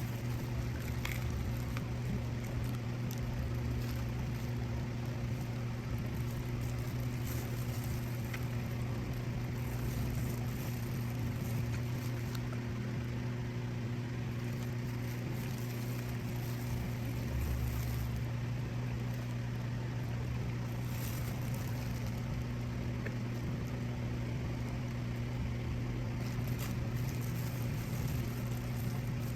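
A steady low machine hum, with faint scattered clicks and taps over it.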